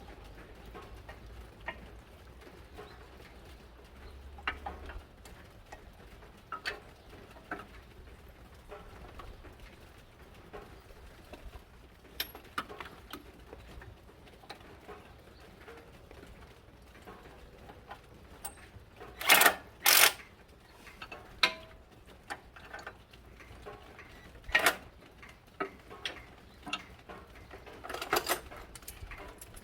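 Scattered sharp clicks and knocks of hand tools and metal parts being handled during forklift engine assembly. The loudest is a close pair of knocks about two-thirds of the way in.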